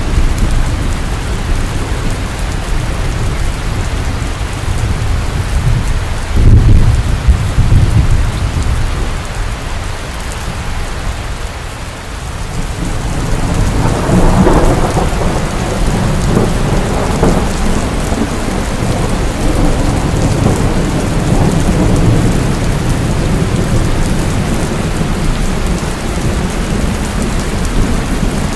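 Steady heavy rain with thunder. A short, loud low thunder crack comes about six or seven seconds in, and about halfway through a long rolling rumble builds and carries on through the rest.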